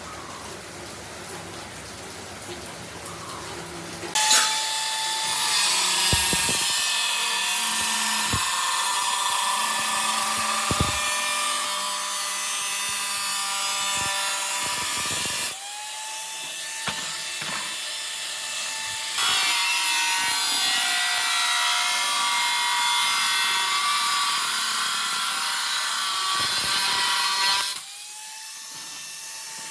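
A handheld power tool cutting or grinding metal, spinning up about four seconds in with a harsh, high-pitched grinding noise. It eases off briefly around the middle, runs hard again, and stops near the end.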